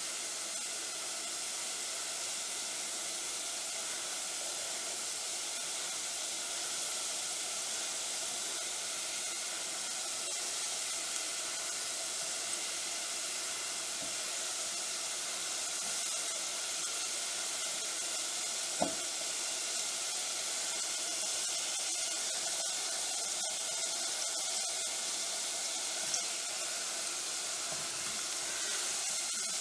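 Cheepappam frying in hot oil: a steady sizzle, with a single light knock about two-thirds of the way through.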